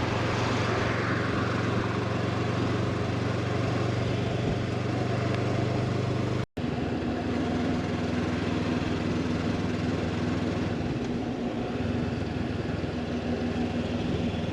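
Honda motorcycle engine running steadily while riding at speed, with wind and road noise. The sound cuts out for a moment about six and a half seconds in; after that the engine note sits higher.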